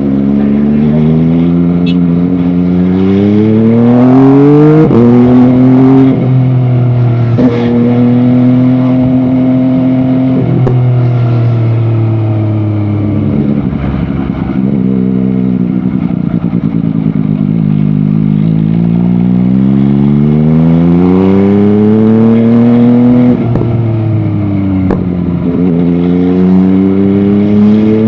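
MV Agusta Dragster 800 RR's three-cylinder engine pulling hard through the gears, its pitch climbing and dropping sharply at each upshift. It settles to a steady pace, falls away as the bike slows, then climbs again through more upshifts near the end.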